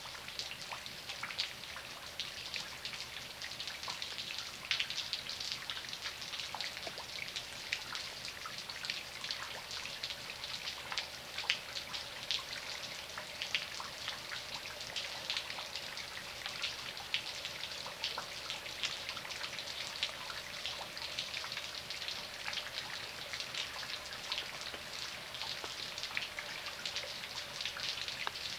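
Steady rain, with many small, sharp drips falling close by.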